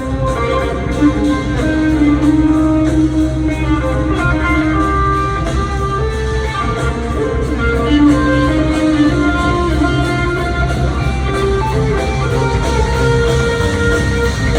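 Rock band playing live with no singing: electric guitar lines over a steady bass and drums.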